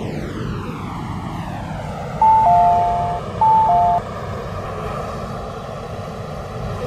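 Steady rumble of an MTR K-stock train and platform machinery. A two-note electronic chime, high then lower, sounds twice about 2 and 3.5 seconds in: the warning before the train doors close.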